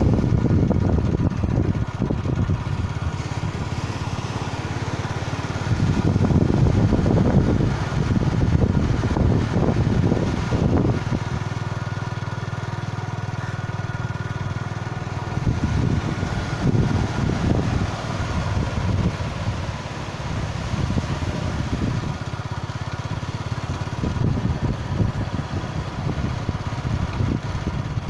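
Motorbike engine running steadily during a ride, with an irregular low rumble surging and easing throughout.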